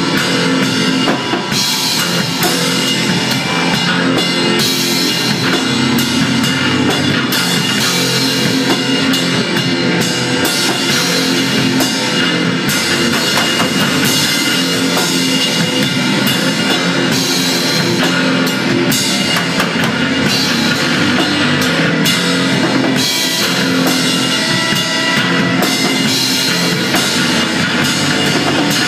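A rock band playing loud psychedelic garage noise: a pounding drum kit with crashing cymbals under a dense, distorted wall of instruments, steady and unbroken throughout.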